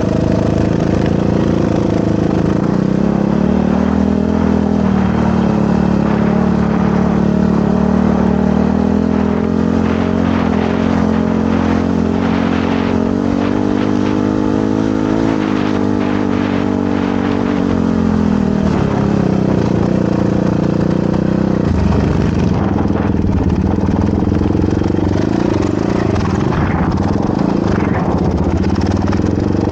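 Motorcycle engine running under riding load, its pitch rising and falling with the throttle, with a rise around the middle and a drop near two-thirds of the way through.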